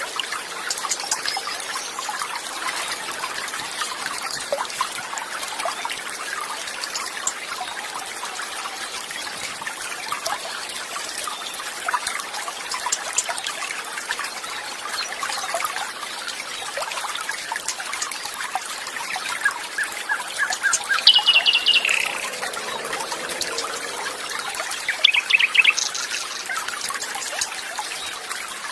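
Water trickling and flowing steadily, with songbirds chirping over it. The loudest calls are quick runs of high notes about two-thirds of the way through and again near the end.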